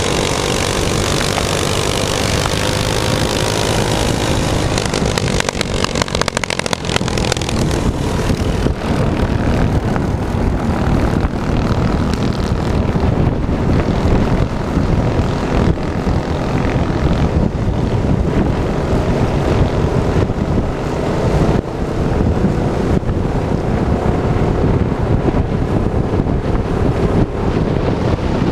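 Minibike's small engine running, its pitch wavering a little in the first few seconds, then a rough steady drone with a loud rushing noise over it.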